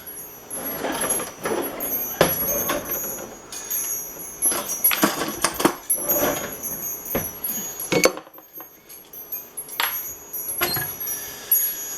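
Kitchen utensil clatter: a metal spatula and dishes knocking, clinking and scraping, a dozen or so irregular knocks with short scrapes between them.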